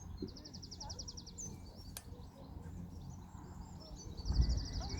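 Small songbirds singing: a fast, even trill of about a dozen high notes, given twice, among scattered chirps. A low rumble swells near the end.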